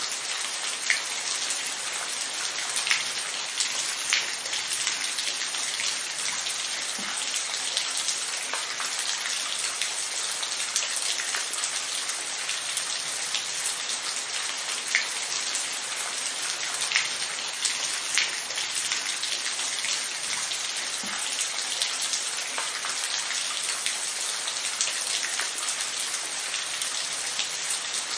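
Steady rain falling, a continuous hiss with scattered louder individual drop impacts.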